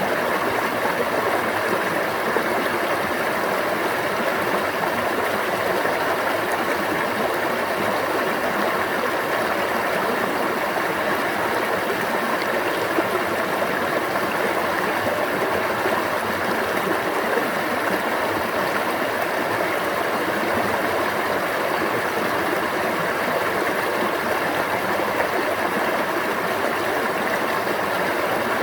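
Water of a stream flowing steadily, a continuous even babble.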